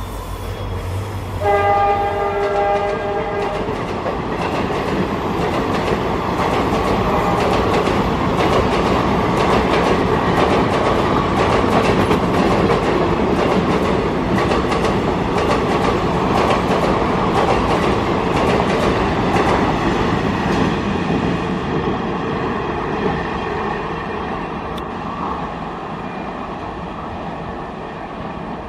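WDP4D diesel locomotive's horn sounding briefly about two seconds in. Then the passenger coaches run past, wheels clattering rapidly over the rail joints. The clatter fades near the end as the train moves away.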